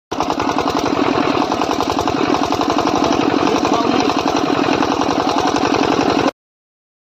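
An engine running steadily with a fast, even knocking pulse. It cuts off abruptly about six seconds in.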